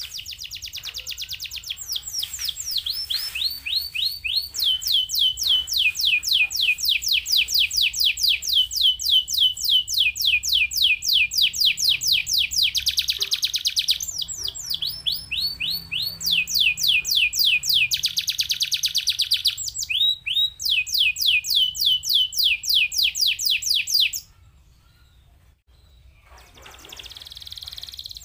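Domestic canary singing long rapid rolls of repeated down-slurred notes. These switch between phrases and are broken by dense buzzy trills. It stops for about two seconds near the end, then starts again.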